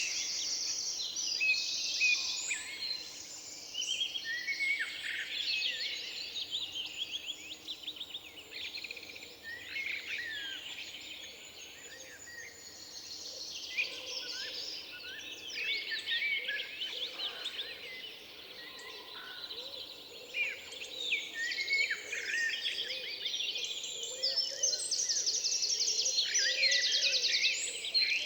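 Several songbirds singing at once in a forest, overlapping chirps and fast trills, thinning out for a few seconds around the middle and building up again towards the end.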